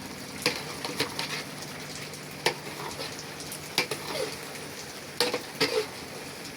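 Spaghetti in palm-oil sauce sizzling in a pot that has cooked nearly dry, stirred with a spoon that knocks and scrapes against the pot about six times.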